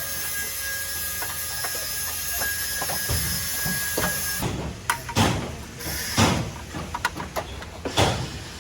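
Workshop hiss with a thin steady whine, then from about halfway a run of irregular knocks and clattering from work on the car.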